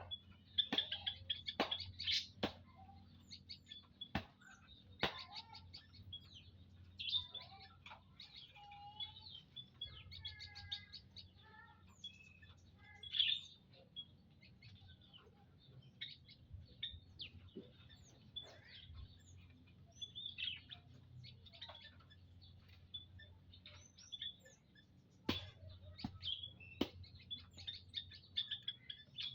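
Prinias (prenjak lumut) chirping and twittering, many short high calls overlapping throughout, with a few sharp clicks mixed in and a faint steady low hum underneath.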